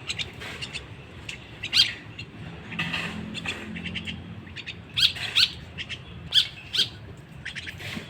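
Young jalak (starling) chick giving short, harsh squawking calls, about five loud ones spaced irregularly, with fainter chirps between them.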